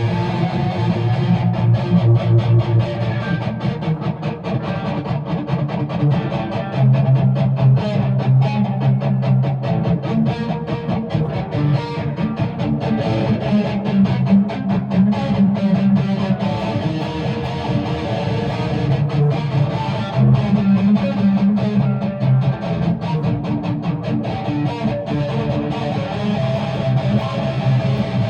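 Guitar played without vocals: steady strummed chords over held low notes that shift every second or two.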